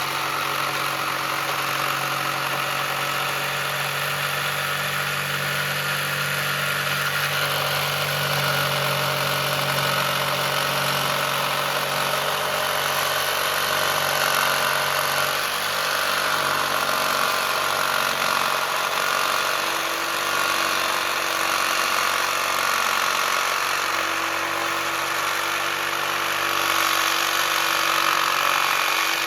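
A motor running steadily, its pitch shifting a couple of times.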